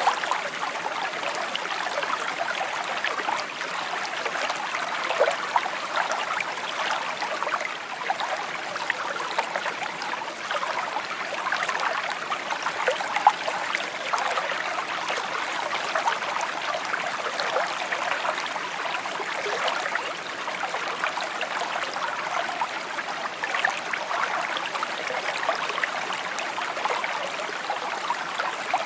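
A small stream trickling and babbling steadily, a clear, even sound of running water.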